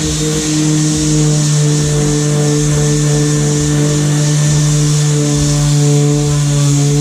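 Electric power sander running steadily at constant speed: a steady motor hum with a whine on top and a broad hiss.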